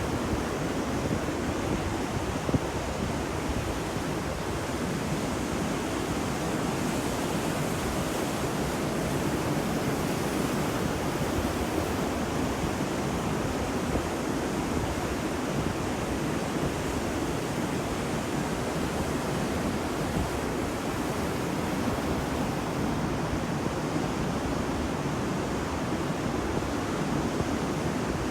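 Ocean surf washing onto a beach in a steady, unbroken wash of noise, with some wind on the microphone.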